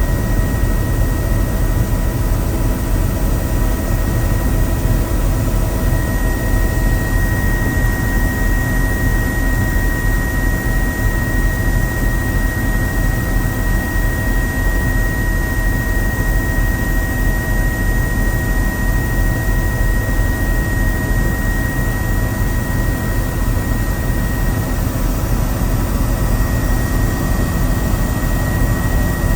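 Helicopter in flight: the turbine engine and rotors make a steady, unbroken noise with a high, constant whine over it.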